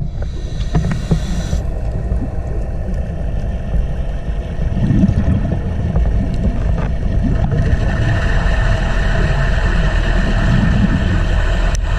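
Underwater noise picked up by a camera below the surface: a steady low rumble of moving water, with a higher hiss that grows louder about halfway through.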